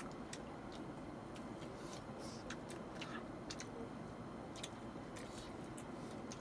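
Faint eating sounds of people eating momos by hand: irregular small mouth clicks and smacks over a steady low background hum.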